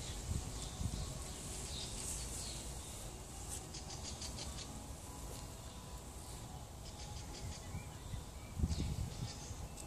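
Small birds chirping and trilling in the background, in short scattered calls with a few rapid trills. Under them is a steady low rumble with a louder bump near the end.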